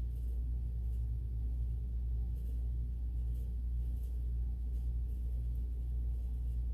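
Steady low background hum, with nothing else heard.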